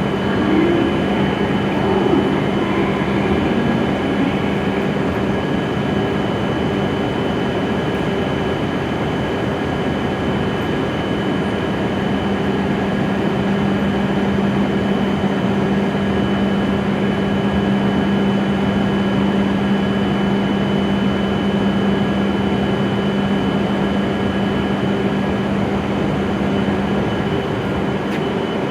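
Shinkansen train standing at the platform, its onboard electrical equipment and cooling fans humming steadily with several even tones over a wash of noise; the lowest tone cuts off near the end.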